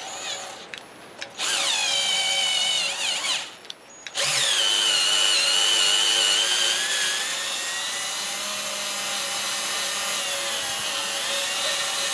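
Handheld electric power tool running in two goes: a short run of about two seconds, then, after a brief pause, a long run of about nine seconds. Its motor whine falls as the long run starts, then holds steady.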